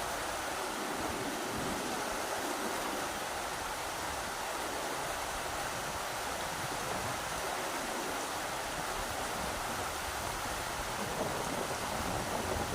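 Rushing river water: a steady, even rush.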